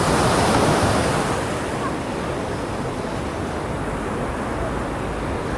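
Sea surf washing in: a loud rushing noise that swells at the start, then holds steady, with some wind buffeting the microphone.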